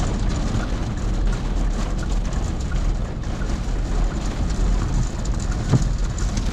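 Strong thunderstorm wind rushing and buffeting the microphone as a deep steady rumble, with scattered light ticks through it.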